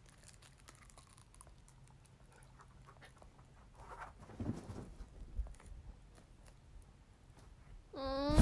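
Faint chewing of a foil-wrapped chocolate, with soft crinkles and small clicks, a little louder about four to five seconds in. Near the end a loud pitched call starts and rises in pitch.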